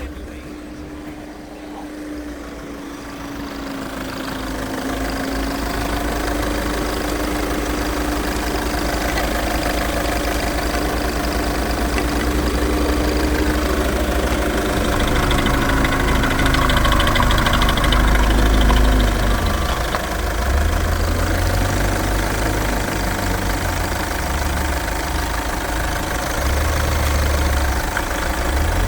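Skoda Octavia 1.6 TDI (CAYC) four-cylinder common-rail diesel engine idling steadily on an engine test, with a steady tone alongside it that fades out about two-thirds of the way through.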